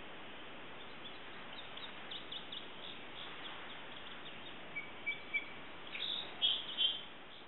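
Small birds chirping over a steady outdoor background hiss: scattered short chirps, a brief held whistled note about five seconds in, and louder bursts of chirping near the end.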